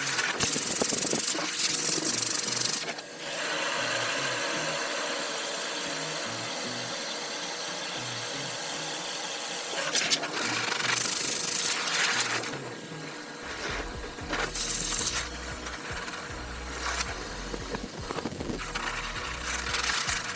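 Pet grooming dryer blowing air through a dog's coat, its hiss swelling in several louder surges as the nozzle is moved about, with a low hum coming in after about 13 seconds.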